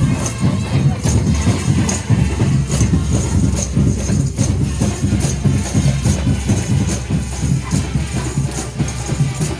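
Cape Minstrel street band playing, a tambourine jingling on a steady beat over a full, bass-heavy band sound.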